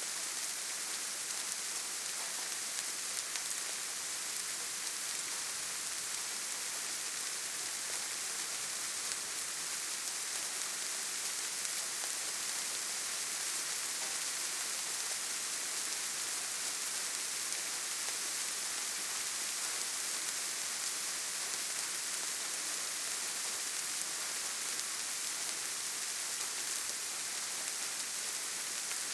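Steady rainfall, an even hiss of rain on leaves and ground with no breaks or single louder drops standing out.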